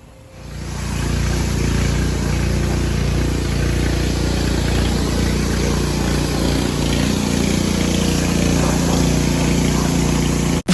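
Pressure washer running, its motor humming steadily under the hiss of the water spray; the sound builds up over the first second and cuts off suddenly at the end.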